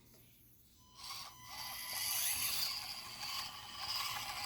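Micro-scale RC rock crawler's small electric motor and gearbox whirring as the truck drives, starting about a second in with a steady high whine.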